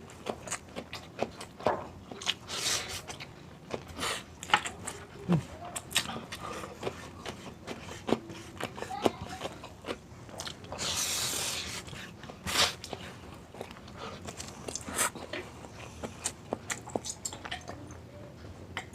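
Close-miked eating: repeated crunchy bites and chewing with sharp, wet mouth clicks. About eleven seconds in there is a longer hissing sound lasting about a second and a half.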